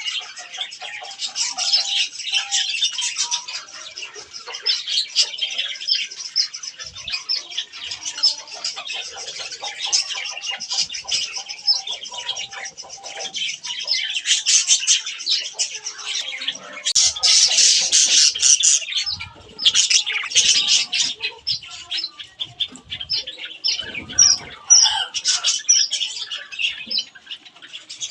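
A flock of budgerigars chirping and chattering nonstop in high warbling calls, with the loudest bursts of chatter about two-thirds of the way through and more separate short chirps near the end.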